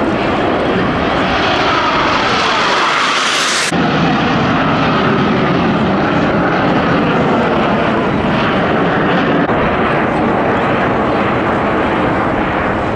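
Aermacchi MB-339 jet aircraft flying past loudly. A rising high-pitched hiss cuts off sharply about three and a half seconds in, giving way to a steady, lower jet noise.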